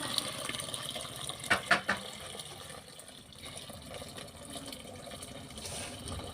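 Water running or being poured, with two sharp knocks about one and a half seconds in.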